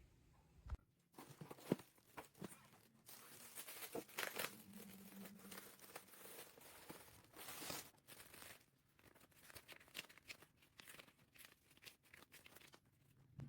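Faint, irregular rustling and crinkling with scattered clicks and knocks, like things being handled.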